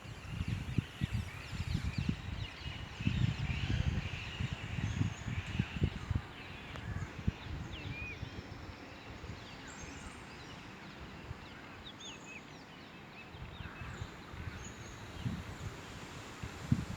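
Outdoor ambience with birds chirping and calling in short, scattered notes, and wind buffeting the microphone with low rumbles for the first several seconds.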